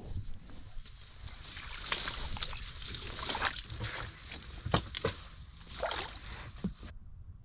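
Water splashing and sloshing with crackling rustles, as of movement in a boat or through marsh water.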